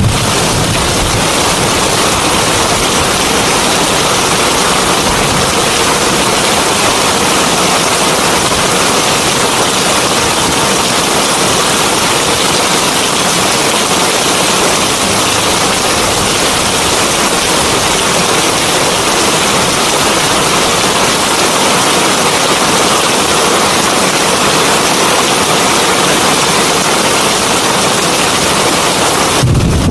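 Heavy rain falling steadily: a loud, dense, even hiss. A low rumble of thunder begins just at the end.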